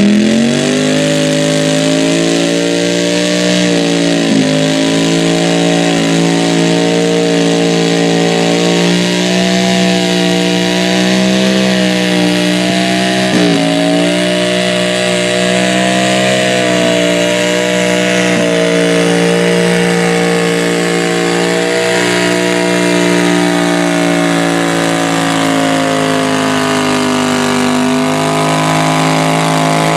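Modified garden tractor engine running at full throttle under load, as in a sled pull. It holds a steady high pitch with brief dips about four seconds in and about thirteen seconds in, easing slightly near the end.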